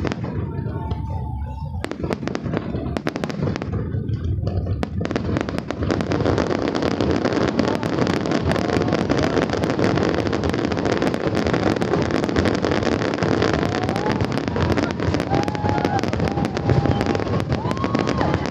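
Aerial fireworks display: many bangs and crackling bursts, growing into a dense, continuous barrage about five seconds in.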